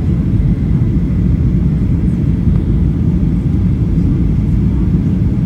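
Steady low rumble of a Boeing 737-800 heard from inside the passenger cabin: its CFM56 jet engines and the airflow over the airframe, even throughout with no sudden changes.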